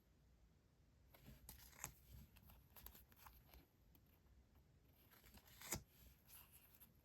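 Faint rustling and handling of paper stationery items, with a few light crisp taps, the sharpest about three-quarters of the way through.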